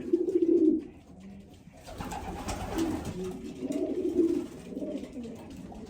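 Racing pigeons cooing: low coos during the first second, then more cooing from about two seconds in.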